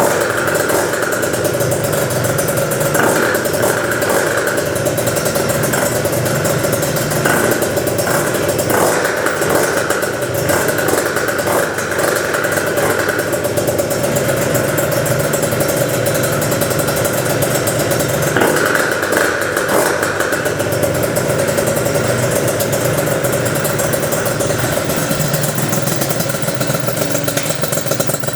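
Gilera Runner FXR 180 scooter's two-stroke single-cylinder engine running steadily on its first test run.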